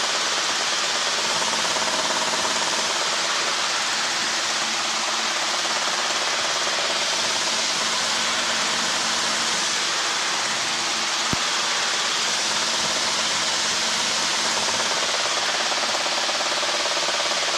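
Steady helicopter engine and rotor noise heard through the cockpit intercom, an even rushing hiss with a faint low hum. A single sharp click about eleven seconds in.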